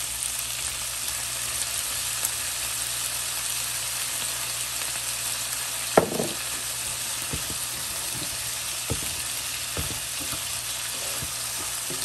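Steak bites sizzling in oil and soy sauce in a skillet, being turned with metal tongs. About halfway through, the tongs knock sharply against the pan once, followed by a few lighter taps.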